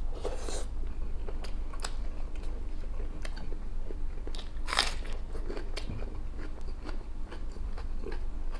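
A man chewing a spoonful of beef, rice and vegetables with bread, close to the microphone: a run of short wet mouth clicks, with two louder bursts, one just after the start and one about halfway through.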